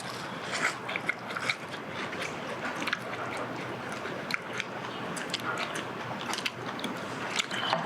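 A person chewing food close to the microphone, with many small irregular mouth clicks and smacks.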